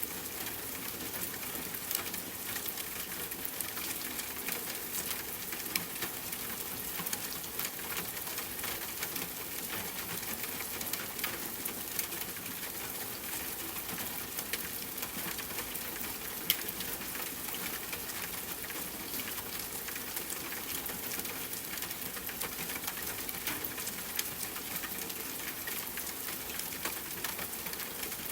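Steady rain falling on a tent, mixed with campfire crackling: an even hiss dotted with sharp pops, one louder pop past the middle.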